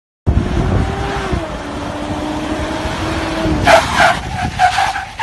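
SUV engine running at steady revs with a droning tone that dips slightly about a second in, followed near the end by a run of five or so short, sharp squeals.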